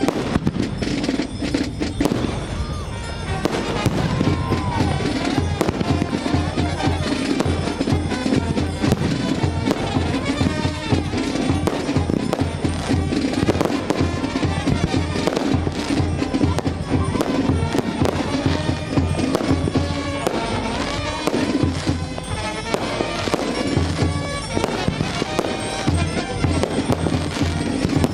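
Fireworks going off in rapid succession, with many sharp bangs and crackles, over loud music with a steady bass line.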